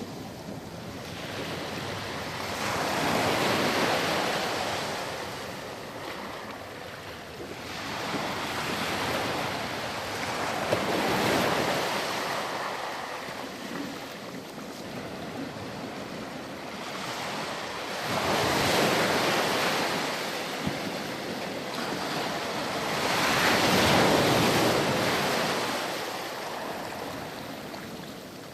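Surf on a sandy beach: waves breaking and washing up the shore, the hiss of water swelling and fading about every five seconds.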